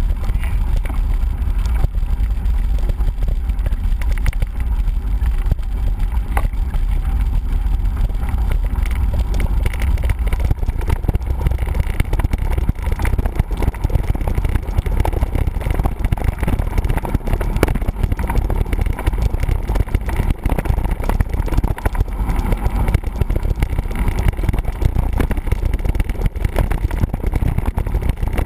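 Mountain-bike riding noise: a steady rumble of wind on the microphone with continual clatter and rattle from the bike over rough ground.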